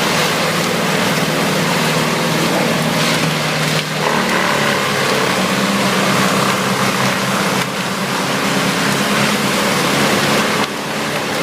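Vermeer WC2300XL whole-tree chipper running: a steady engine drone under a loud rushing, grinding noise, shifting abruptly a few times.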